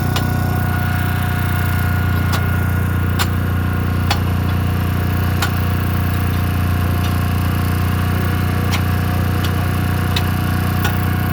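A machine running steadily with a low drone and a steady whine over it, with scattered sharp clicks or taps.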